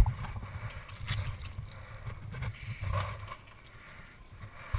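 Handling noise from reloading an airsoft rifle: a sharp click at the start and another near the end, with a few light knocks between, over low wind rumble on a body-worn camera microphone.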